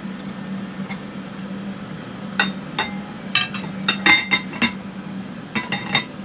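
Metal tweezers and a small silver piece clinking against a dish, a dozen or so sharp clinks in small quick groups through the second half, over the steady hum of fume-extraction fans.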